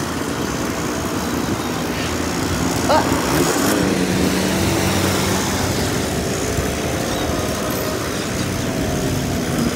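Busy street traffic heard from a moving bicycle: a steady rush of passing cars, motorcycles and buses, with a vehicle engine running close by in the middle. A brief rising sound stands out about three seconds in.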